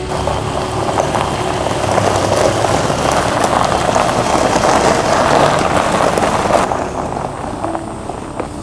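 Heavy rain falling on a surface close to the microphone, a dense patter of many drops. About six and a half seconds in it suddenly becomes softer and duller.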